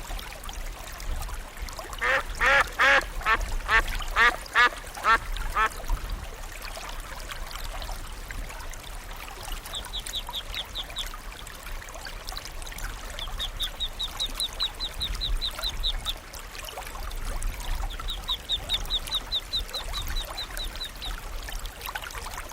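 A duck quacking, a quick run of about ten loud calls, followed by three shorter runs of fast, high-pitched chirping trills from a bird.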